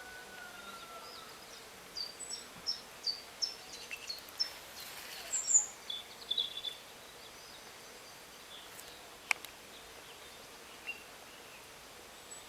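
A small bird calling: a run of short high chirps at about three a second starting two seconds in, then a few louder high notes, over a steady faint outdoor hiss. One sharp click comes about nine seconds in.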